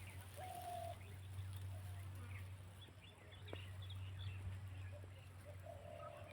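Faint bird calls: two short, flat calls and scattered brief chirps, over a steady low hum.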